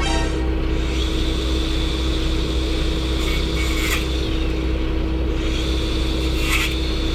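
Steady engine and road drone heard from inside a moving vehicle's cab, with a constant low hum and a couple of brief rattles.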